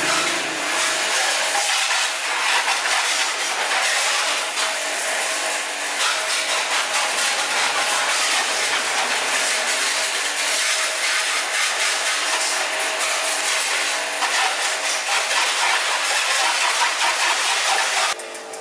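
Loud steady hiss of a high-pressure jet of car wash spray equipment, cutting off suddenly just before the end.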